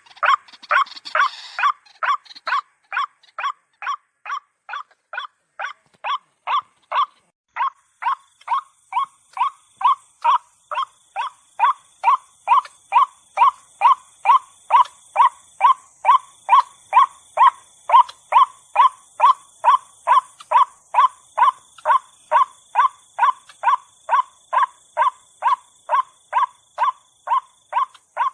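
White-breasted waterhen calling: a long, evenly paced series of short, harsh notes, about two a second. A faint, steady, high-pitched hiss comes in about eight seconds in.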